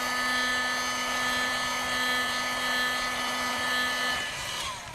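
Hot air rework gun blowing steadily, heating the area around the charging port to soften its adhesive. Its fan gives a steady whine that stops shortly before the end.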